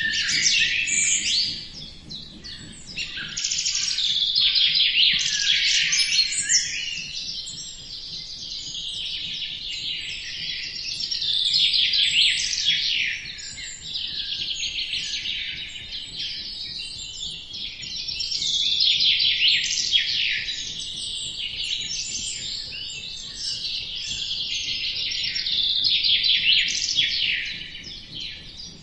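A chorus of many small birds chirping and twittering densely and without pause, rising and falling in waves every few seconds.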